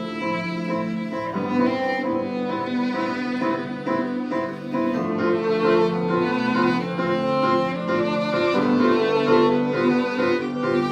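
Live acoustic music with bowed strings: a violin melody moving over held low notes in the cello range.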